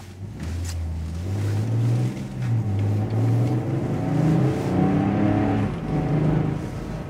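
Ineos Grenadier's BMW 3-litre straight-six engine pulling hard, heard from inside the cabin. Its pitch climbs and then drops back a few times as the 8-speed automatic gearbox shifts up, over a steady road rumble.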